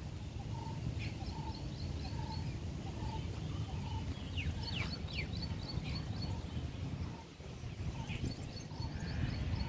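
Birds calling in a garden: a short note repeated about once every 0.7 s through the first half, and three bursts of rapid high twittering, over a steady low rumble.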